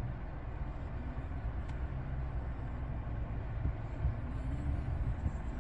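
Steady low rumble of a 2024 Chevrolet Trax idling, heard from inside the cabin, with a few faint ticks.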